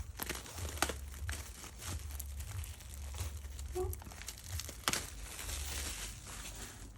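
Plastic wrapper being crinkled and torn off a boxed K-pop album, an irregular run of crackles and crisp clicks.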